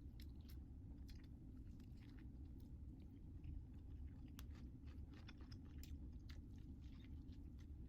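A person chewing food, with scattered small mouth clicks over a low steady hum.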